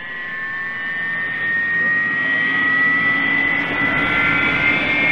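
RC model airplane's motor and propeller whining, the pitch slowly rising as it grows louder over the first couple of seconds, then running steadily.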